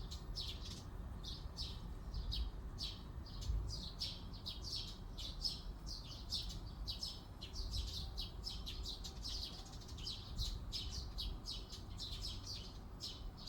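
Songbirds chirping in a forest: short, high chirps repeated rapidly, about three a second, without a break, over a faint low rumble.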